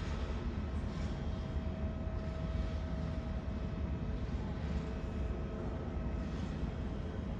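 Airbus A320neo jet engines on takeoff: a steady rumble with a faint steady whine over it.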